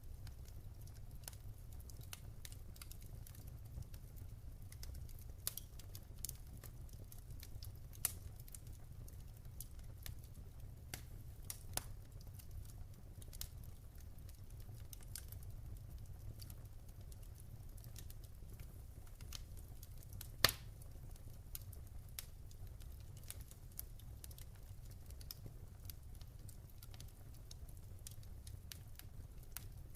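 Wood fire in a fireplace crackling: irregular sharp snaps and pops over a steady low rumble of burning, with one louder pop about twenty seconds in.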